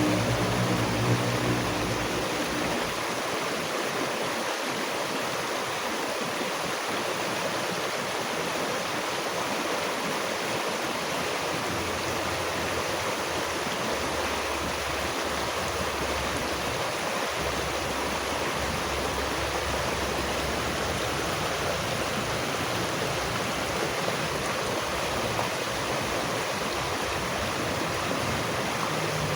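Steady rush of running water, a flowing stream, even and unbroken throughout, with a low hum in the first two seconds.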